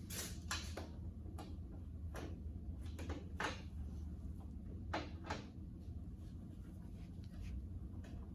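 Irregular clicks, knocks and short scrapes of tools and metal parts being handled during a tractor repair, over a steady low hum.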